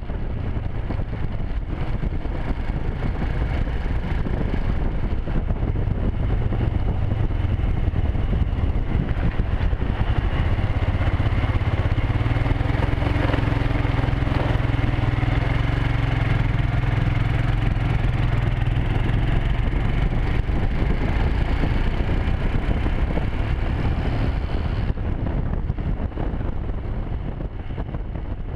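Motorcycle engine running under way, with wind rushing over the microphone; the engine note rises through the middle and eases off near the end.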